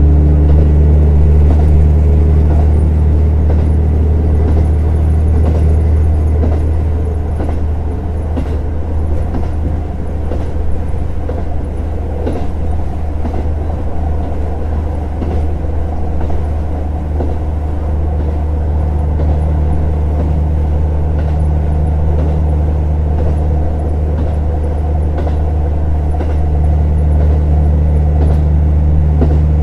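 KiHa 150 series diesel railcar running, heard from aboard: a steady low diesel engine drone with rail noise. The engine note eases off about a quarter of the way in and builds again in the second half, with a few faint clicks from the track.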